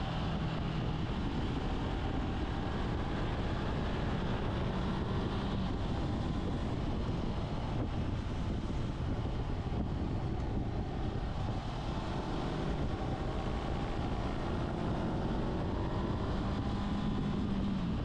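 Motorcycle riding on the road: its engine running steadily, with wind noise rushing over the microphone.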